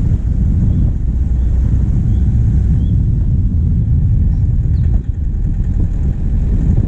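Diesel engine of a vehicle driving on a forest track, with a steady low rumble of engine, tyres and wind on a bonnet-mounted microphone. Faint short high chirps repeat through the first three seconds.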